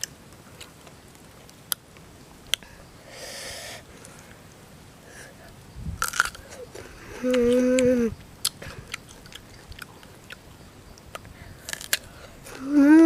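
Close-up crunching and chewing of raw green guava, with a few sharp bites scattered through. About seven seconds in, a boy's voice gives a held "mmm" of about a second, and another voice sound begins at the very end.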